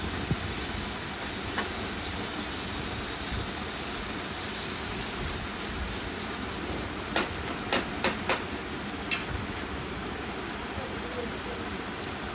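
Sliced onions, tomato and coriander sizzling steadily in hot oil in a nonstick kadhai as they are stirred with a metal ladle. A few sharp taps of the ladle against the pan, most of them clustered about seven to nine seconds in.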